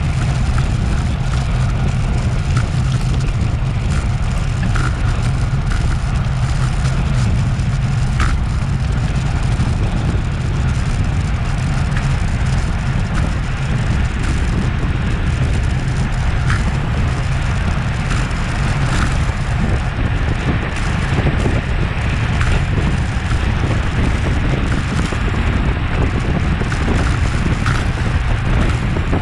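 Steady wind rumble on an action camera's microphone from a road bike at race speed, mixed with tyre and road noise. Now and then a short faint chirp sounds over it.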